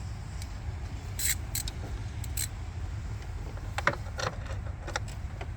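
A few scattered sharp metallic clicks and clinks of hand tools, a 10 mm socket and ratchet being handled on the ignition coil bolt, over a steady low rumble.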